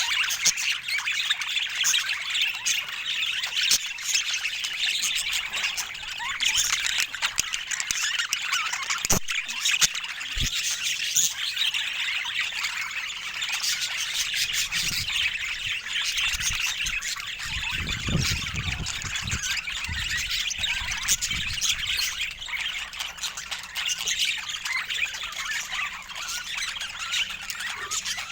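Budgerigars chattering and squawking continuously, many calls overlapping. A sharp click about nine seconds in and some low rumbling in the middle.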